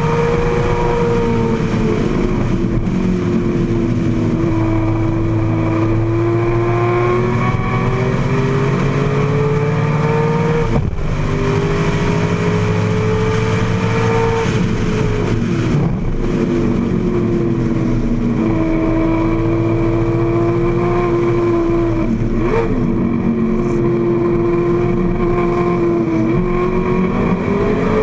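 AC Cobra's V8 engine under full racing load, heard from the open cockpit. Its note climbs and falls as the car pulls through the gears, with sharp breaks at gear changes about 11 and 16 seconds in, over a steady rush of noise.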